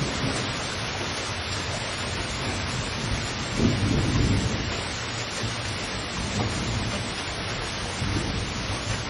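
Heavy rain falling steadily, with a louder low rumble swelling up about three and a half seconds in and fainter ones later.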